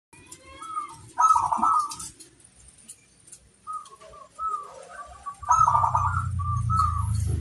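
Zebra dove (perkutut) cooing in its rolling, trilled song: a short phrase about a second in, scattered softer notes, then a longer phrase from about halfway. A low hum sits under the second phrase.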